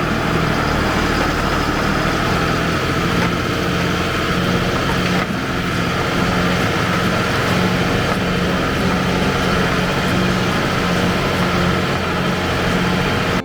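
Allis Chalmers farm tractor engine running steadily at working speed, loud and continuous.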